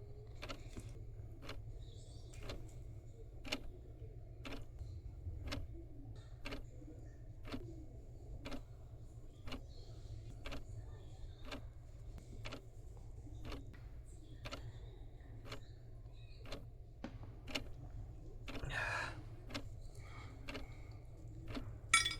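Steady soft ticking, about two ticks a second, over a low steady hum. A short rustle comes about nineteen seconds in, and a sharp clink comes at the very end.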